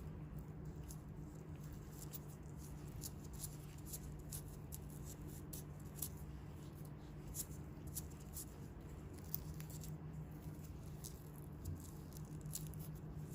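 Faint, scattered little crackles and taps from hands handling bare feet during foot care, over a steady low hum.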